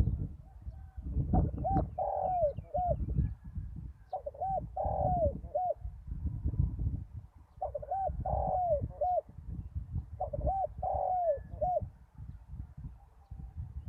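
Spotted dove cooing: four phrases of three or four arched coo notes, one every two to three seconds, over a low rumble.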